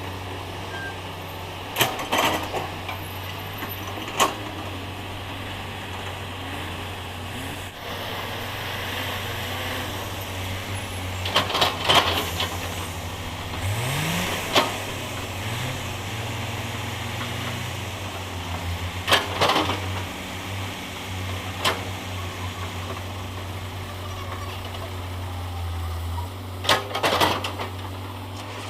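Heavy diesel machinery engine running steadily, with a short rev partway through and sharp clanks and knocks at irregular intervals, typical of an excavator loading a dump truck.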